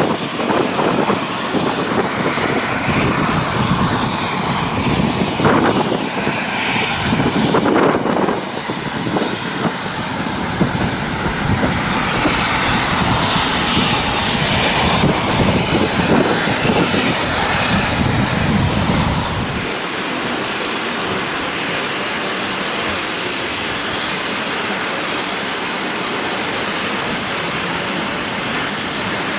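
Steam-hauled train running by, with carriages and wheels clattering over the rails and a hiss. About two-thirds of the way in the sound changes abruptly to a steady, even hiss.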